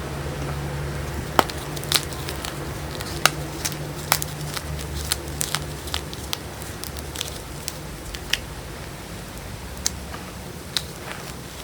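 Blocks of gym chalk crushed between the fingers: irregular sharp crunches and snaps, coming thick and fast for the first few seconds and then more sparsely. A steady low hum sits underneath.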